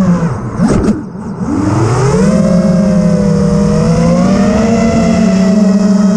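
FPV quadcopter's brushless motors whining. Throttle cut about half a second in: the pitch falls and the whine fades. The pitch then rises again as the throttle comes back up, and holds fairly steady with small wavers.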